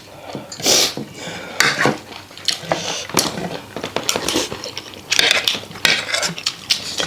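Metal cutlery clinking and scraping on plates at irregular moments during a meal of rice and soup, with eating noises in between.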